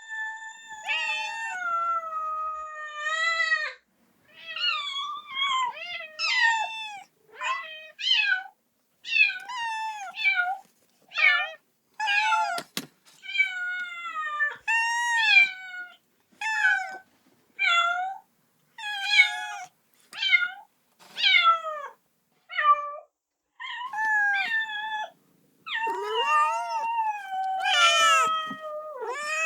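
Kitten meowing over and over, calling for its mother: a steady run of high-pitched meows about a second apart, most short and sliding in pitch, a few drawn out for two or three seconds.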